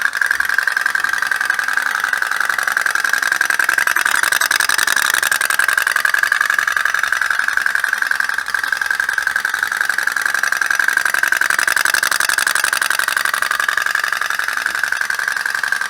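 Toy pop-pop steam boat engine running: a fast, steady buzzing putter from its little boiler. It starts and stops abruptly.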